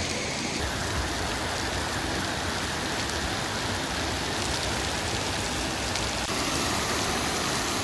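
Steady rush of falling water: a waterfall's roar mixed with rain falling.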